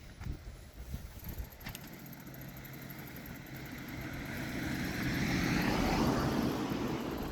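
A motor vehicle driving past: its engine and tyre noise grow steadily louder over several seconds, peak near the end, then begin to fall away with a dropping pitch as it passes.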